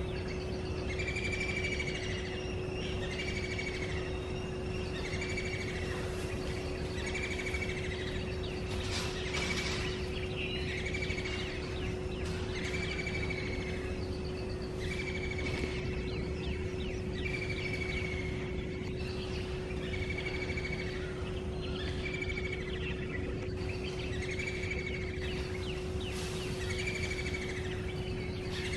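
A bird calling over and over, one short call roughly every second and a quarter, over a steady low hum and a low rumble.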